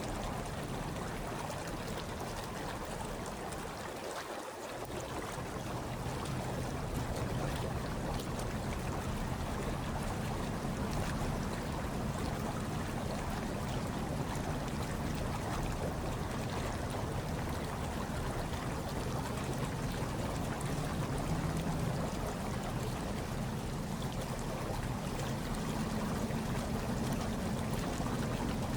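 Hot tub water churning and bubbling steadily, with a low rumble underneath. The sound dips briefly about four seconds in, then comes back fuller.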